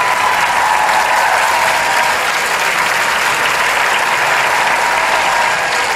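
Studio audience applauding steadily, a dense continuous clapping.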